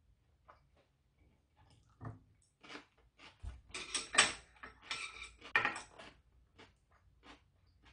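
Close chewing and mouth sounds of a person eating sundaeguk, with light clicks of metal chopsticks against dishes. The chewing is loudest from about three and a half to six seconds in, opening with a soft low knock.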